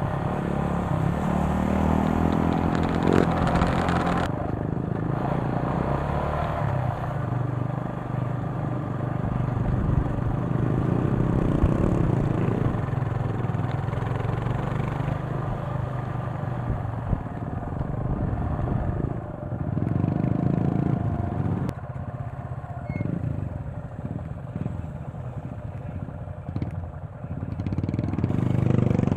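Motorcycle engine running while riding, its pitch climbing over the first few seconds as it accelerates, then holding steady. A rushing noise over it is strongest in the first four seconds.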